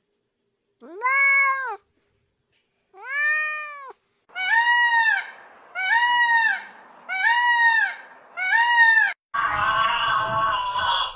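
A domestic cat meowing six times, each meow about a second long and rising then falling in pitch; the first two are lower and spaced apart, the last four higher and coming at an even pace. Near the end a different, rougher animal call starts.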